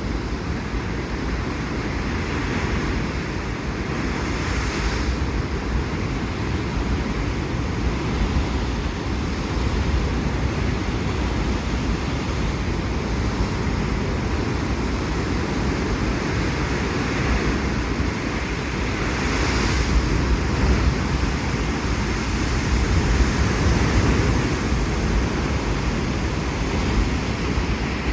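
Sea surf washing and breaking against a rocky coast, a steady low rumble of water with louder surges rising and falling about 5 seconds in and again past the middle. Wind buffets the microphone throughout.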